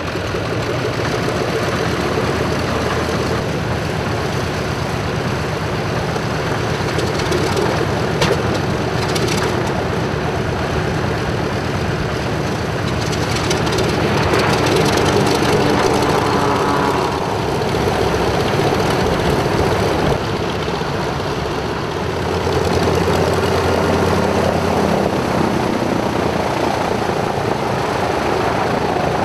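Consolidated PBY-5 Catalina flying boat's twin radial piston engines and propellers running in flight. The pitch glides about halfway through as the aircraft passes.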